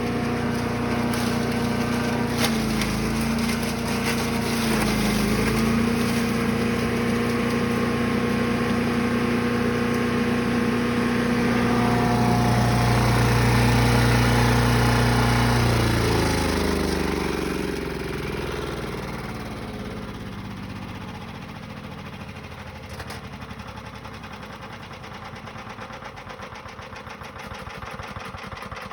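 Brush Master 3-in-1 chipper/shredder's gas engine running steadily, its pitch dipping briefly twice. About halfway through it is shut off and winds down with falling pitch, leaving a fading clatter as the rotor coasts to a stop.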